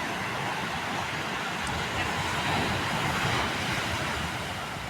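Surf of a rough sea: a steady rush of breaking waves that swells a little louder around the middle, with wind blowing on the microphone.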